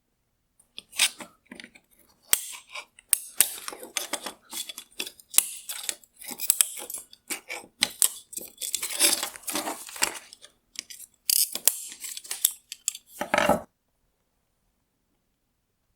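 Hard plastic parts of an LED tail lamp being handled and worked apart: irregular clicks, scrapes and clatters for about 13 seconds, ending with a short, fuller scrape before they stop.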